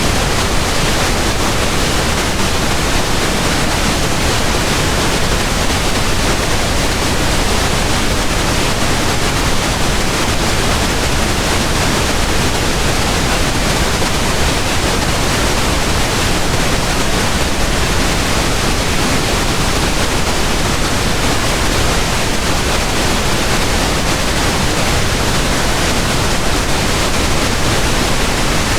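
Steady pink noise: an even, unchanging hiss spread across all frequencies, deeper than white noise.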